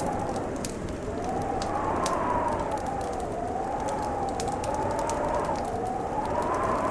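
Fireplace crackling with frequent sharp pops, over a blizzard wind howling that slowly rises and falls in pitch, swelling every second or two.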